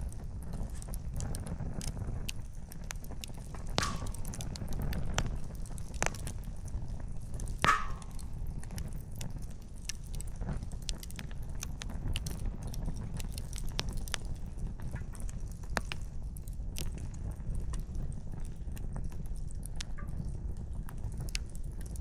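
Wood campfire crackling: irregular sharp pops and snaps of burning firewood over a low steady rumble, with a few louder pops in the first half.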